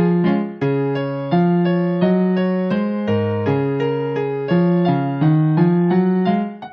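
Yamaha electronic keyboard on a piano voice playing a four-hands duet arrangement in D-flat major: chords over a bass line, each struck and left to decay, a new chord about every 0.7 seconds.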